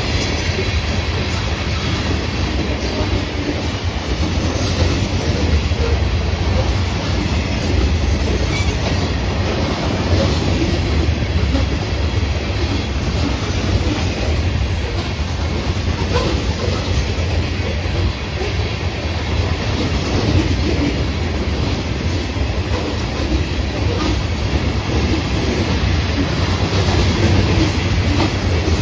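Florida East Coast Railway freight train rolling past, a steady heavy rumble with the clicking of wheels over the rails.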